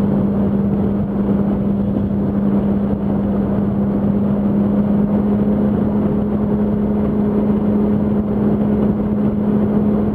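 Yamaha R1's inline-four engine running at steady highway speed, a drone holding one pitch over a constant rushing noise.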